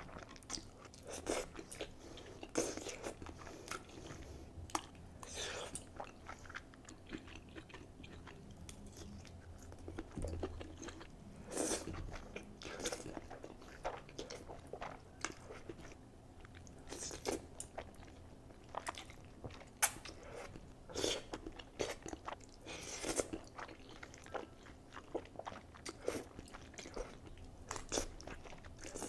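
A person eating cheesy Buldak ramen noodles: irregular chewing, biting and wet mouth smacks, with a few longer noisy sounds.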